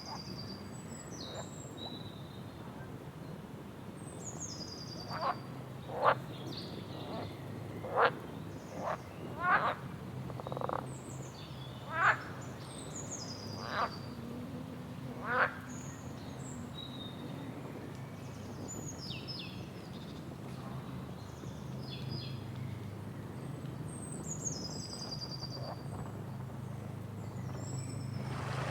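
Wild birds calling: high, falling whistled calls repeat throughout. About eight short, sharp, louder calls come between about five and sixteen seconds in, over a steady low hum.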